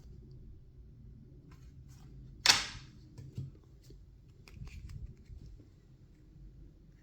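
Trading cards and packaging being handled: faint rustles and small clicks, with one sharp snap about two and a half seconds in and a smaller click just after.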